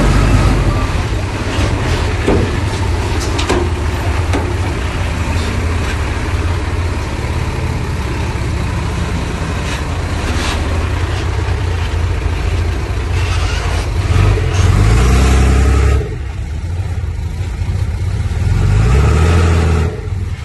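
Heavy diesel earthmoving machinery running under load, its engine revving up twice in rising pitch near the end, with a few sharp metallic knocks earlier on.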